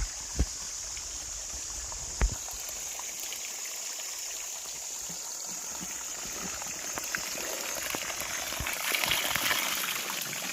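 Water from a natural forest spring gushing and splashing steadily, growing louder about nine seconds in. There is a sharp knock about two seconds in.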